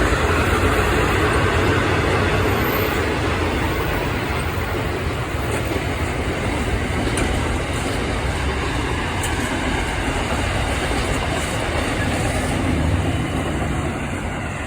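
Goods train rolling past, a steady rumble and rattle of wagons on the track that slowly fades.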